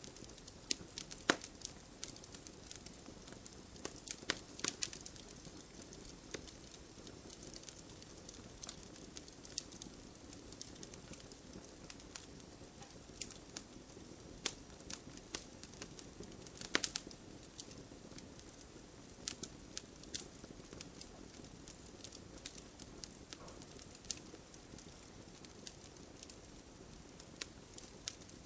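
Wood fire crackling, with irregular sharp pops and snaps, a few louder ones about a second in, around four to five seconds in and near the middle, over a steady hiss of gentle rain.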